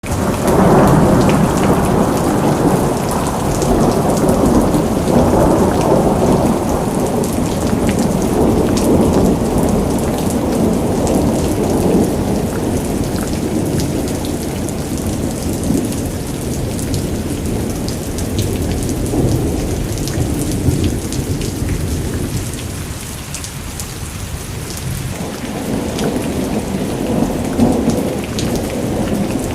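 Rain falling during a thunderstorm, with scattered drop taps over a low rolling rumble of thunder. The rumble is heaviest in the first dozen seconds, dies down about twenty-three seconds in, and builds again near the end.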